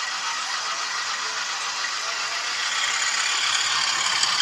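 OO gauge model locomotives running on the layout: a steady whir of their motors and wheels on the track, growing a little louder about three seconds in.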